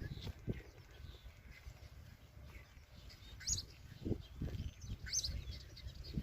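A small songbird giving a few short, high chirps, the clearest about three and a half seconds and five seconds in, over scattered low thumps.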